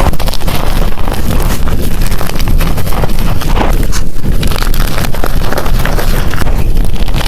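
Blocks of gym chalk being crushed by hand, crumbling with a dense run of small crunches over a heavy low rumble close on the microphone.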